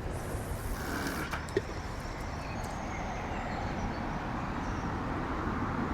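Low, steady engine rumble of a passing river boat, slowly growing louder, with a single light click about a second and a half in.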